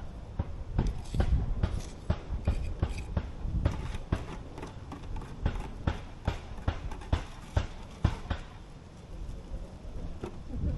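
A run of short, irregular knocks and taps, a few a second, easing off for a moment near the end.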